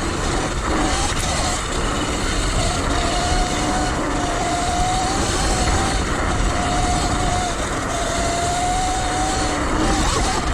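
Sur Ron Light Bee X electric dirt bike riding along, its motor and drive giving a whine whose pitch wavers up and down with speed, over a steady rush of wind and tyre noise.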